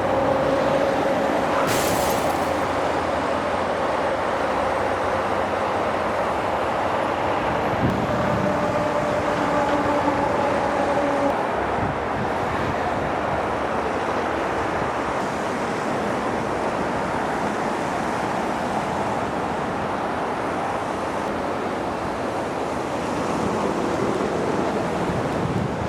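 Steady road and engine noise heard inside a moving vehicle while it drives along.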